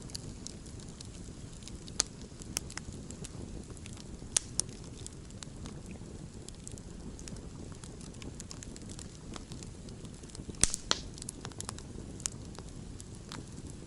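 Wood campfire burning with a steady low rumble and irregular sharp crackles and pops, a quick cluster of louder pops about three quarters of the way through.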